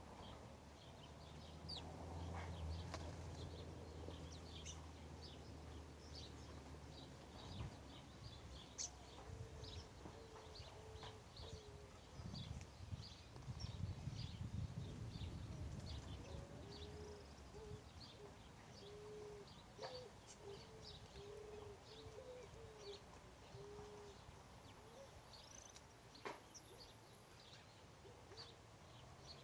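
Faint birdsong: many short, high chirps from small birds, joined in the middle by runs of short, low hooting notes. A low steady hum fades out about seven seconds in.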